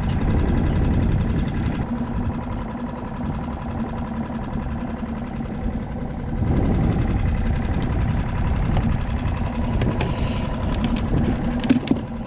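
A motor running steadily: a low rumble with a constant hum. A few light clicks come near the end.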